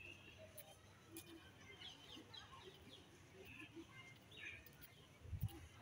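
Faint scattered bird chirps and short calls over quiet park ambience, with a soft low thump near the end.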